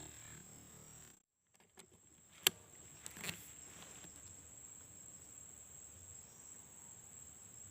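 Steady high-pitched insect drone, like crickets or cicadas. A single sharp click comes about two and a half seconds in, with a softer rustle just under a second later.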